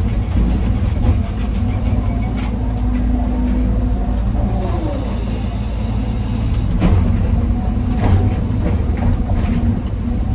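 Heavy diesel machinery running steadily with a deep rumble, an excavator loading rock into a dump truck, with a few sharp knocks from rock and steel, the loudest about 7 and 8 seconds in.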